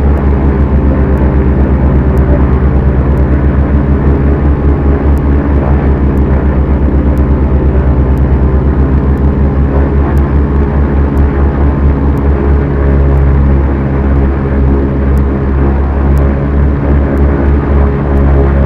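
Beechcraft Duchess twin piston engines and propellers running steadily, with a regular throbbing beat as the two engines turn at slightly different speeds; the beat changes about two-thirds of the way through. Faint ticks come about once a second.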